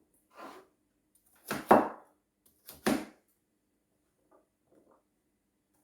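A few short knocks or clatters, the loudest a quick double knock about one and a half seconds in, over a faint steady hum.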